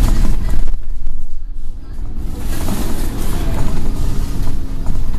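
Scania N113 bus engine running and the bus moving along, heard from inside the cabin as a steady low rumble with road hiss, the hiss dropping away briefly about a second in.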